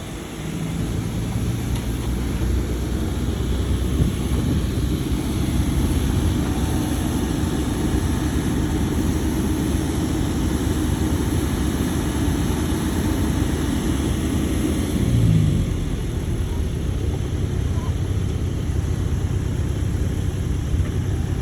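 Shantui crawler bulldozer's diesel engine running steadily. About fifteen seconds in its pitch falls and it settles to a slightly lower, quieter note.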